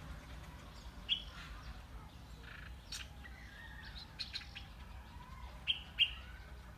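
A small bird chirping: short, sharp single chirps, one about a second in and two louder ones close together near the end, with fainter chirps and clicks between, over a steady low rumble.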